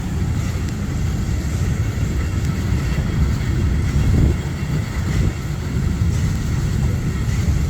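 Historic train running along the line: a steady low rumble of wheels on rail, with a few faint clicks.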